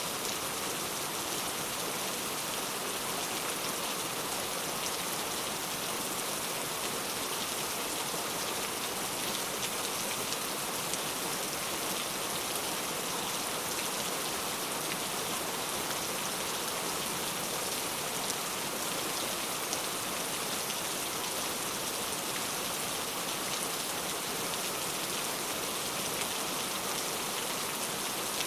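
Heavy rain falling steadily, an even hiss of drops on hard surfaces with occasional faint individual drop ticks.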